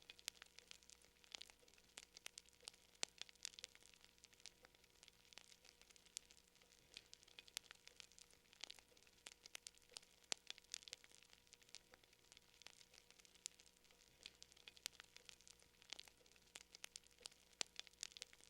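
Faint fire crackling: irregular small pops and snaps, several a second, with no steady rhythm.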